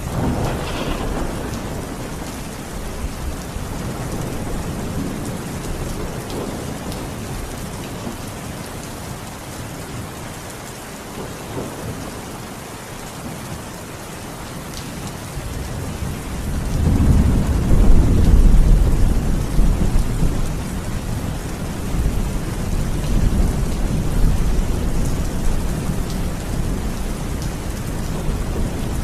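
Steady rain falling with thunder: a rumble dies away over the first several seconds, then a loud, deep roll of thunder swells up a little past halfway and rumbles on to the end.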